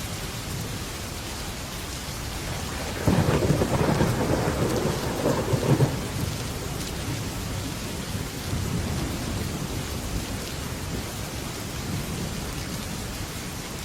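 Heavy rain drumming steadily on a metal roof, with a sudden loud thunderclap about three seconds in that rumbles for around three seconds, and a fainter roll of thunder a few seconds later.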